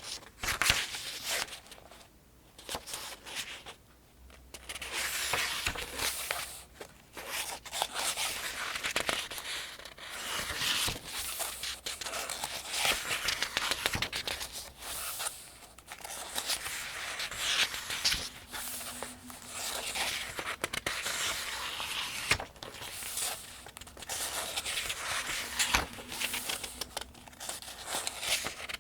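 Paper pages of a Farmers' Almanac being turned one after another, each turn a crisp rustle and swish of the thin newsprint-like pages, in a steady rhythm of roughly one to two seconds per turn.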